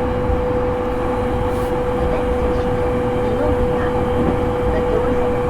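Running sound inside a JR East E231-series commuter train's motor car at speed: a steady whine over the low rumble of wheels on rail.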